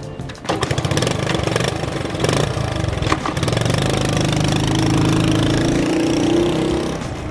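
Honda DAX70's small single-cylinder four-stroke engine starting about half a second in and running, with a brief rise in revs around five to six seconds before easing back near the end.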